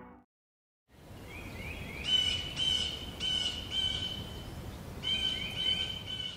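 A bird calling repeatedly in short rising chirps, about two a second, in two runs with a short break between them, over a steady outdoor hiss. The sound comes in about a second in, after a moment of silence.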